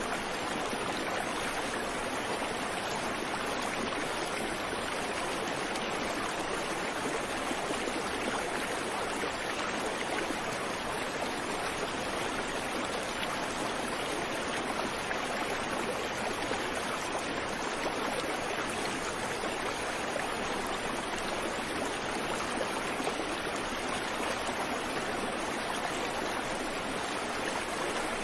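Creek water flowing over rocks: a steady, even rushing and babbling with no birdsong.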